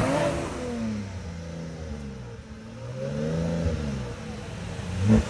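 A car engine revving and accelerating. Its pitch drops over the first couple of seconds, climbs again about three seconds in, and a sharp loud burst comes near the end.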